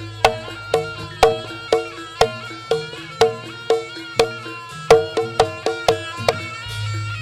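Live Javanese Barongan accompaniment music, gamelan-style. Pitched metal percussion strikes about twice a second over a held melody line, and a deep gong-like tone swells near the end.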